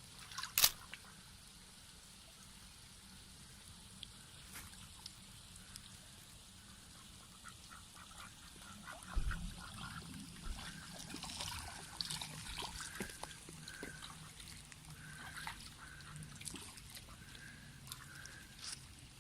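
Domestic ducks bathing in shallow water: small splashes and dabbling, with a run of short, soft quacking calls in the second half. A single sharp click about half a second in.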